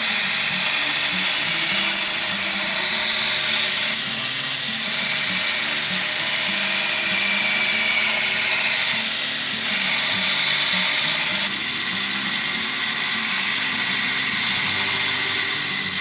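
A power tool running steadily on steel, with a dense, even hiss; it drops slightly in level about eleven seconds in.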